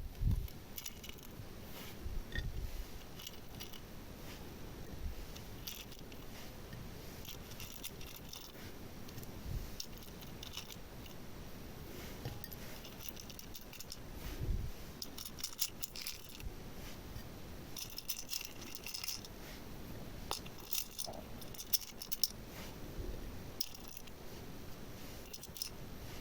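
Small hard decorations such as beads, charms or miniature toys clicking and rattling against each other and their container in scattered bursts, with a few dull knocks.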